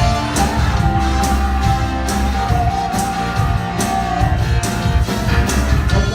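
Live cumbia band playing at full volume: steady bass, regular percussion strokes and a long held high note from just after the start to about four seconds in.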